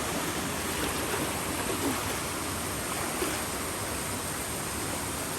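Steady rush of a waterfall and river current, an even roar of water.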